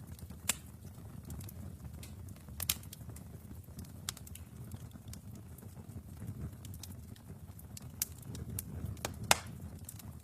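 Wood fire burning in a fireplace: a low rumble of flames with scattered sharp crackles and four louder pops, the loudest near the end.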